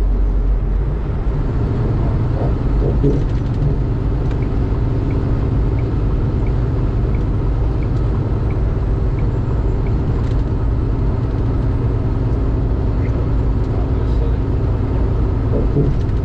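Inside a semi-truck's cab at highway speed: the steady drone of the diesel engine and road noise. For a few seconds in the middle a faint, regular ticking comes about one and a half times a second.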